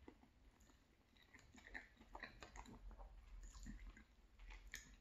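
Faint chewing of a mouthful of sausage rigatoni: soft, irregular mouth clicks and smacks.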